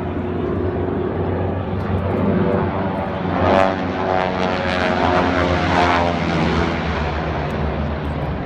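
Propeller airplane flying past, its engine note swelling to its loudest in the middle and easing off toward the end.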